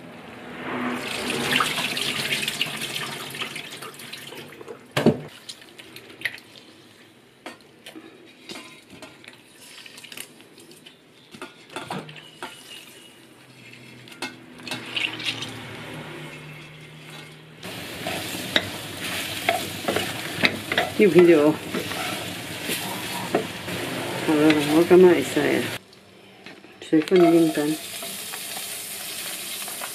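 Hands swishing soaked dried shiitake mushrooms in a bowl of water, then a quieter stretch with scattered light clicks. About two-thirds of the way in, oil starts sizzling as dried baby shrimp are stir-fried in a wok with a wooden spatula.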